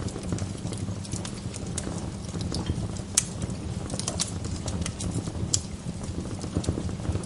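Wood fire in a fireplace crackling: frequent sharp pops and snaps over a steady low rumble, with the loudest pops about three, four and five and a half seconds in.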